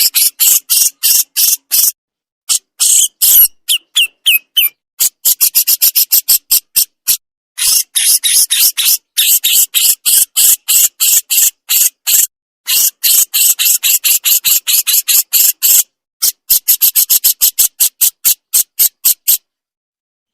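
Burung jenggot giving its full 'besetan' call: long runs of rapid, sharp, high-pitched rasping notes, about five a second, broken by short pauses. The calling stops about a second before the end.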